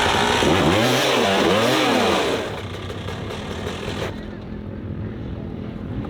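Dirt bike engine revved up and down in several quick blips, then dropping away to a fainter running sound about two seconds in.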